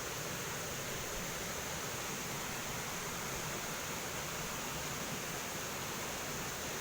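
Steady rushing of flowing water with a constant high hiss, even throughout with no distinct events.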